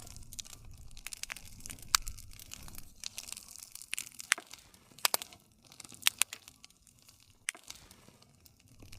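Campfire crackling: sharp pops and snaps scattered over a soft low rumble of flame, thinning out in the second half.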